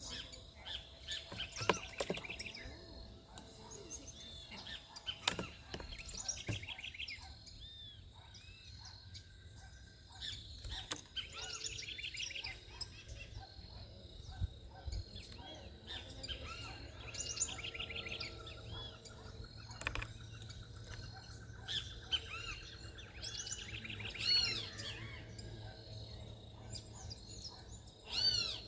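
Several small birds chirping and calling over one another in short repeated notes, with a quick trill in the middle and a few sharp clicks.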